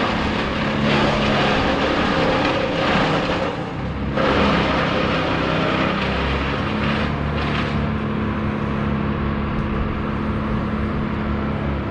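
An engine running steadily, with louder rushing noise over the first four seconds and again briefly around seven seconds in.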